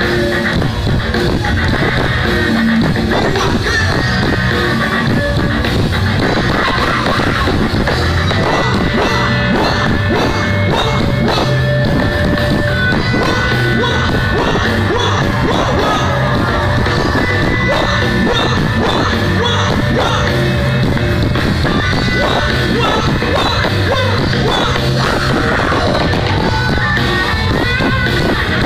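Loud rock music with a band and a singer, the vocals at times yelled.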